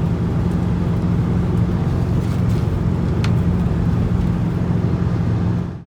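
Toyota Blizzard's diesel engine running steadily under way, a constant low drone. The sound cuts off abruptly near the end.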